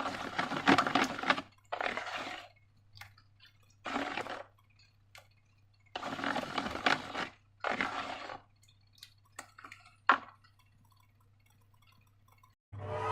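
Slime being squished and squeezed by hand: five wet squelching bursts, each lasting up to a second and a half, followed by a few small clicks and one sharper click.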